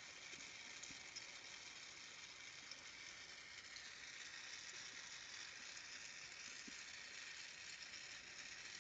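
Faint, steady hiss of a Carlisle glassworking torch flame burning.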